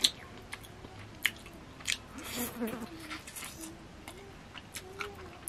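A person chewing and biting into chicken masala eaten by hand, with sharp wet mouth clicks and smacks every second or so.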